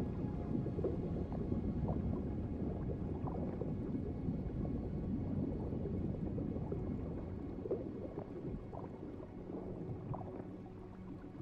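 Underwater ambience: a low, steady gurgling and bubbling with small scattered pops, easing off slightly near the end.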